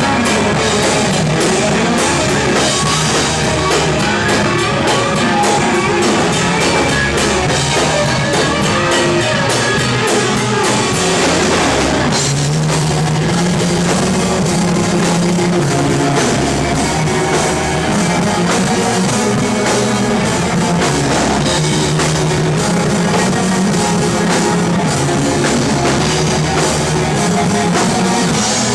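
Live rock band playing an instrumental passage with a drum kit, electric guitar and bass, with no singing. The low bass part shifts about twelve seconds in.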